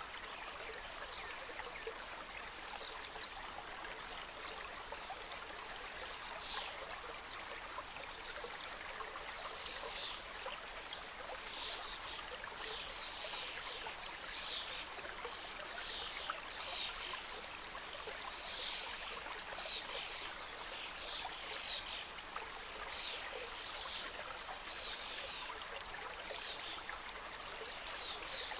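Mountain stream cascading and gurgling over rocks, a steady even rush of water. Short high notes recur about once a second from about six seconds in.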